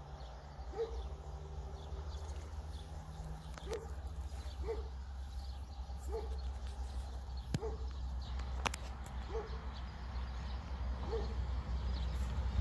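Siemens Desiro diesel multiple unit approaching with a low rumble that grows louder toward the end, with a few sharp clicks near the middle. Over it a bird calls again and again, a short note about once a second.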